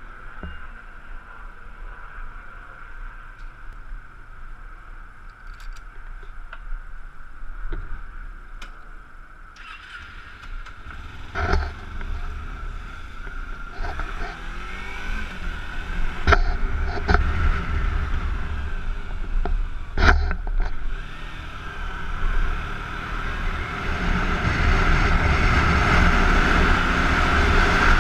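Kawasaki Ninja 250's parallel-twin engine running, heard from the rider's helmet, as the bike pulls away and picks up speed. There are a few sharp clicks midway, and engine and wind noise grow louder toward the end.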